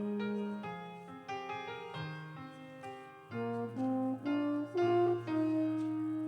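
Slow instrumental prelude music on a keyboard instrument, with long held bass notes under a melody that moves note by note. It grows louder again a little past the middle.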